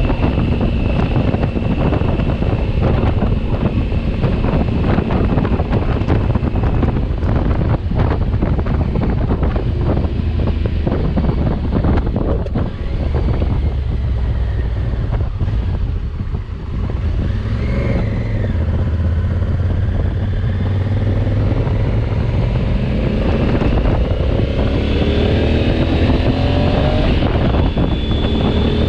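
Honda Africa Twin's parallel-twin engine running on the move, with heavy wind buffeting on the microphone. In the last few seconds the engine pitch rises as the bike accelerates.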